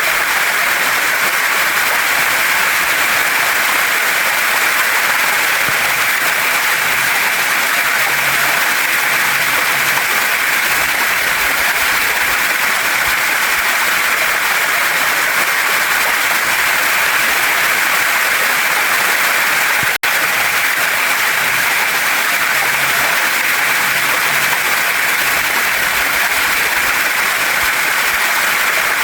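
Steady rush of water from a waterfall and stream pouring over rocks, an even hiss strongest in the upper middle range, with a momentary dropout about two-thirds of the way through.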